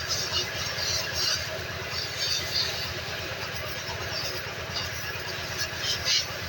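A small engine idling steadily with a fast, even low pulse, and scattered hissing and clatter over it.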